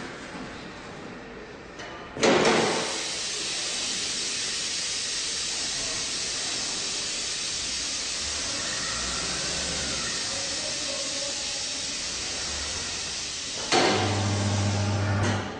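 A loud steady hiss of escaping or rushing air starts suddenly about two seconds in and keeps on evenly for about eleven seconds. Near the end the electric motor of a tyre changer starts with a steady low hum, stops briefly and starts again.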